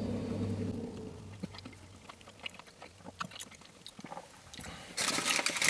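A person chewing a mouthful of crispy fried chicken sandwich, with scattered faint mouth clicks, and a louder burst of noise near the end.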